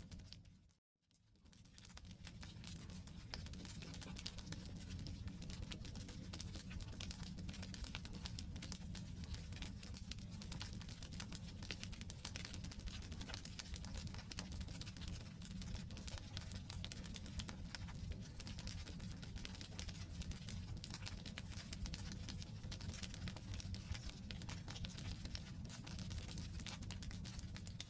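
Wood campfire crackling and popping in dense, irregular snaps over a steady low rumble of burning. About a second in, the sound drops out briefly and fades back up.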